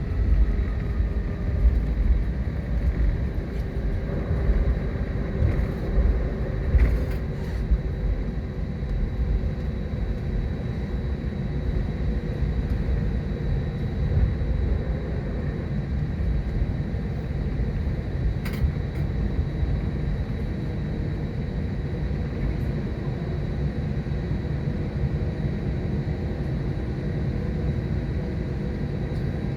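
Inside the cabin of an Airbus A320 with IAE V2500 jet engines during take-off and initial climb: a loud, low engine and airframe rumble. It is uneven and bumpy in the first several seconds, then settles to a steadier rumble. A few brief knocks come about seven and eighteen seconds in.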